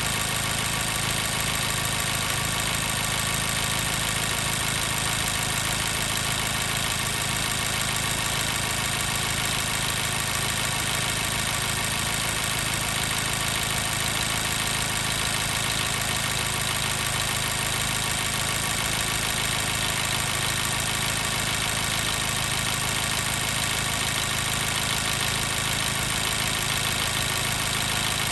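2014 Mazda 3's 2.0-litre four-cylinder engine idling steadily, warmed up, with the miss of a misfiring number 2 cylinder.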